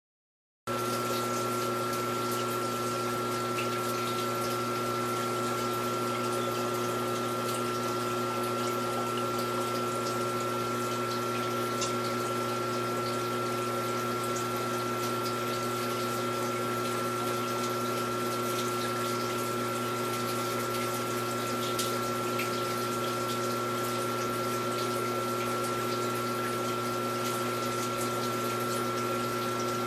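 Aquarium water pump running, a steady hum with the hiss of circulating water. It starts about half a second in.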